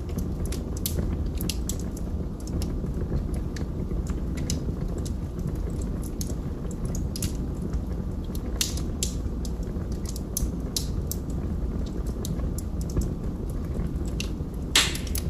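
Wood fire burning in a fireplace: a steady low rumble of flames with irregular crackles and pops from the burning logs. One louder pop comes near the end.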